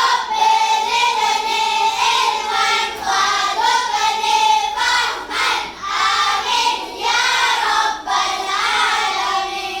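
A group of children singing together in unison, in phrases of held notes, stopping near the end.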